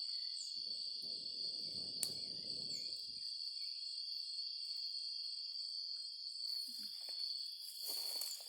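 A steady, high-pitched chorus of insects, with repeating chirps above it. A soft rustling noise comes in for about two seconds near the start, and more rustle builds near the end.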